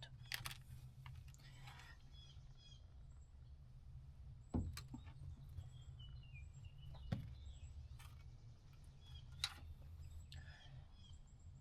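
Quiet background with a steady low hum, a few sharp knocks from handling parts, and faint high chirps.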